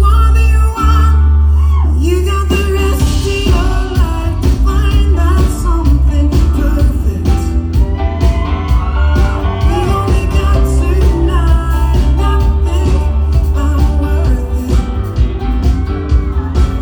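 Live rock band playing: a heavy held bass note, then drums and a cymbal wash come in about three seconds in, with guitars and a bending lead line above.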